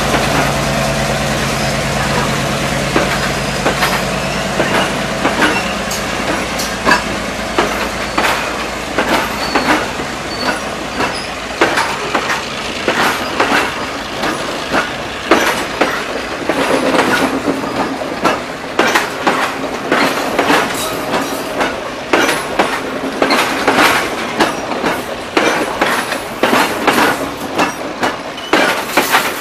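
Passenger coaches rolling past close by, their wheels clicking and knocking over rail joints, the clicks coming thicker in the second half. In the first few seconds the steady hum of the departing M2A class diesel locomotive fades away.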